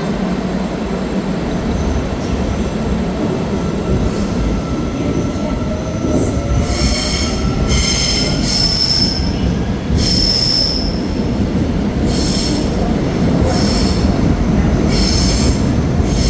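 Seoul Subway Line 4 train running through the station with a steady rumble on the rails. From about six seconds in, its wheels squeal in repeated high-pitched bursts.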